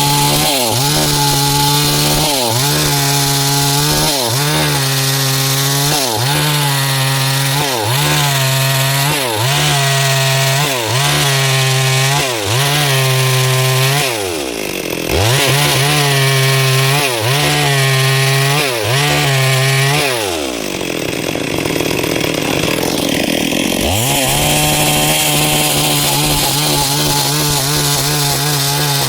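Stihl MS 382 two-stroke chainsaw cutting into a large log, its engine pitch dipping under load and recovering about once a second as the bar is pushed through the wood. About two-thirds of the way through the revs drop away for a few seconds, then climb back to full speed.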